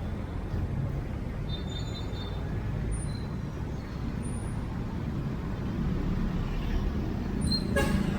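Street traffic: a steady low rumble of vehicle engines, with a short sharp noise near the end.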